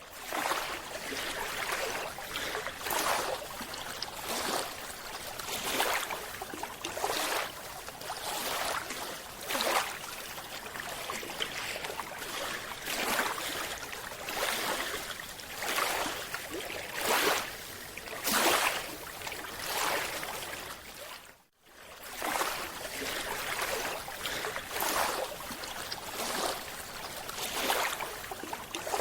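Rushing, splashing water noise that rises and falls in surges about once a second, with a brief cut about two-thirds of the way through.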